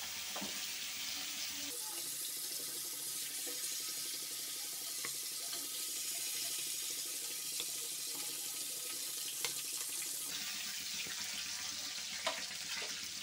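Prawns frying in hot oil in a wok: a steady sizzle, with a few light clicks of a metal slotted spoon against the pan as the prawns are lifted out.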